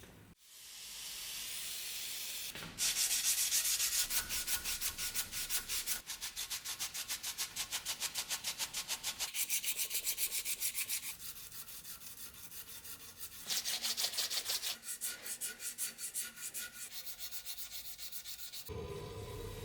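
Sandpaper rubbed by hand along a rusty steel saber blade to take off the rust: a soft rub at first, then quick back-and-forth scraping strokes several a second. A steady hum comes in near the end.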